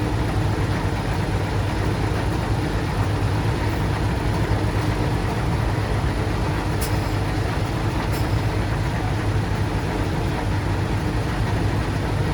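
Bulldozer's diesel engine running steadily at an even pitch, with two faint clicks a little past the middle.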